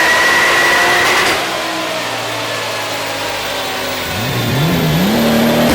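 Modified Nissan R35 GT-R's twin-turbo V6 with aftermarket exhaust: a steady high-revving note that cuts off about a second in, a lower quieter running note, then the revs climb, dip and climb again near the end.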